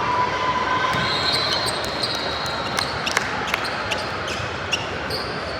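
Basketball shoes squeaking on a gym floor as players move, with a few sharp ball bounces or knocks in the middle, over the general din of a gym.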